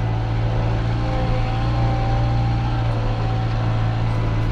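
JCB 3CX Compact backhoe's diesel engine running steadily under work, a constant low drone with a faint whine over it.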